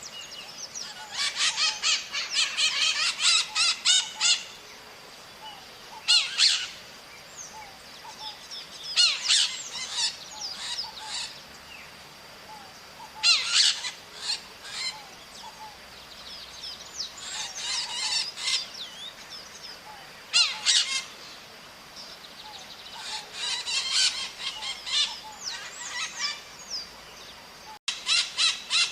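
Maritacas, small Brazilian parrots, screeching in a flock: bouts of rapid shrill calls that come and go every few seconds.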